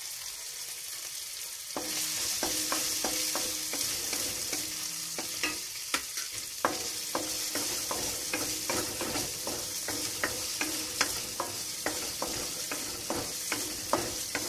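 Green chillies frying with ginger and garlic in hot coconut oil in a metal wok: a steady sizzle that grows louder about two seconds in as the chillies go in. A wooden spatula then scrapes and knocks against the pan again and again as they are stirred.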